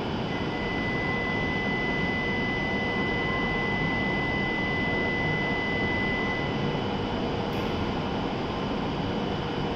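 E7 series Shinkansen standing at the platform, its onboard equipment running with a steady hum and hiss. A steady high tone sounds over most of the first seven seconds, then stops.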